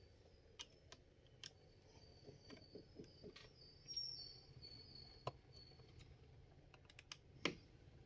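Faint, scattered clicks and small taps of a screwdriver undoing the back-cover screws of a Dell Chromebook 11 3189, with a sharper click about seven and a half seconds in. A faint high whistle comes and goes behind them.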